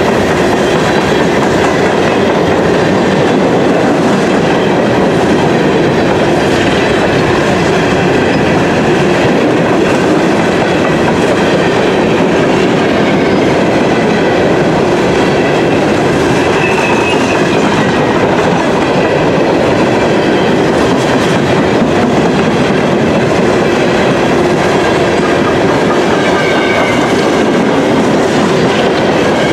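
Loaded CSX coal hopper cars rolling past at speed: a steady, loud rumble of steel wheels on rail. Twice a faint high wheel squeal comes through briefly.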